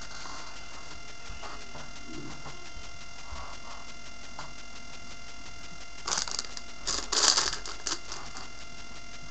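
Handling noise: a few faint clicks, then a burst of rustling and clicking about six to eight seconds in, over a steady electrical hum.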